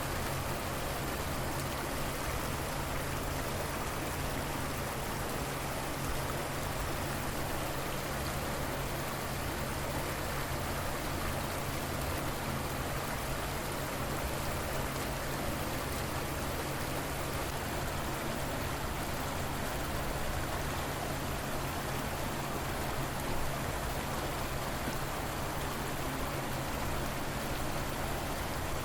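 River water flowing, a steady unbroken rush with no change in level.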